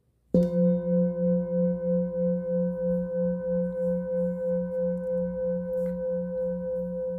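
Singing bowl struck once, then ringing on with a deep pulsing hum, wavering about three times a second, under higher steady overtones, slowly fading.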